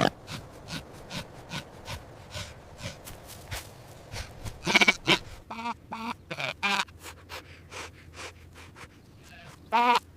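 Sheep bleating: a few short wavering bleats about five seconds in and another near the end, with many short clicks and knocks between them.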